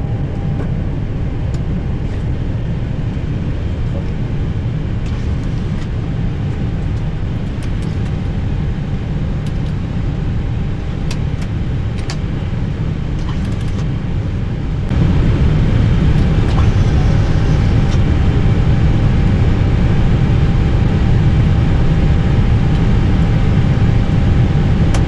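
Steady low rumble inside an Airbus A320 cockpit as it taxis in to park. The rumble jumps noticeably louder about halfway through.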